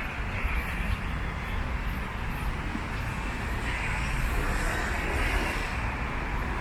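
Steady road traffic noise, a low rumble with tyre hiss, swelling slightly as a vehicle passes about four to five seconds in.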